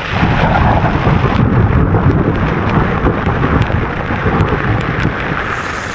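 A loud crack of thunder right overhead, rumbling heavily for about five seconds and easing near the end, over rain and hail pattering on a tent.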